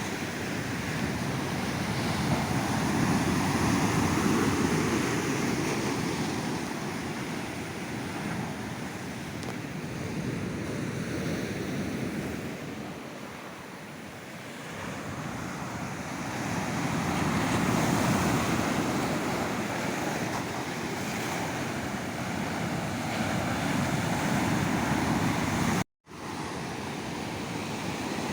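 Ocean surf breaking on a sandy beach, a steady wash of waves that swells and ebbs. It peaks twice and dips in between. Near the end the sound cuts out completely for an instant.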